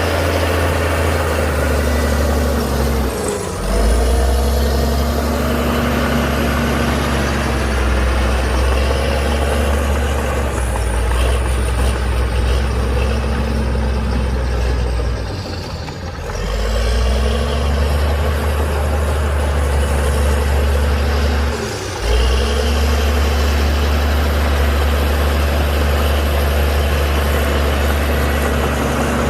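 Heavy diesel engine of a LiuGong crawler bulldozer working under load, with a high whine that rises and falls with the engine. The engine note sags and picks up again three times, about three seconds in, around the middle and again a little later, as the load on the blade changes.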